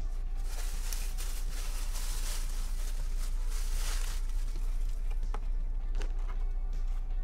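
Close-up chewing of crispy fried chicken, with dense crunching for the first few seconds, then a few sharp clicks and crackles from handling the food and packaging, over a low steady hum.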